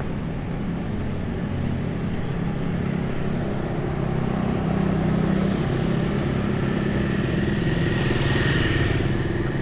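Street traffic: the engines of passing cars and motorcycles run steadily, with one vehicle growing louder near the end.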